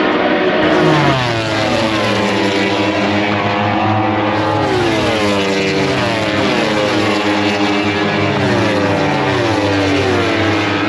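Racing motorcycles on the circuit, their engines dropping in pitch again and again in overlapping steps as they brake and shift down.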